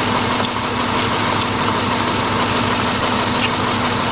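2000 Subaru Impreza's 2.2-litre flat-four engine idling steadily, close up under the hood, with a misfire on one cylinder.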